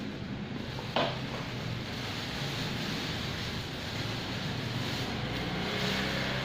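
Steady background rumble with a low hum while takeaway bakso is unpacked, with one short sharp handling sound about a second in.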